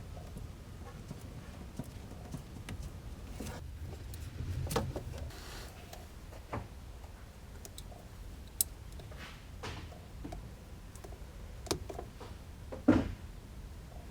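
Scattered light clicks and knocks of hand work on small parts, the loudest about thirteen seconds in, over a low steady hum.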